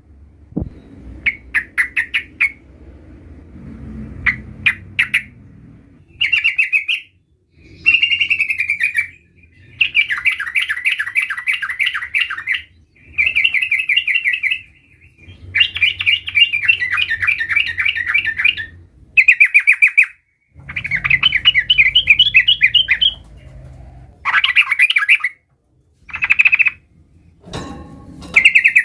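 Yellow-vented bulbul (trucukan) singing in full song: a string of fast, chattering trilled phrases, each one to three seconds long, with short breaks between.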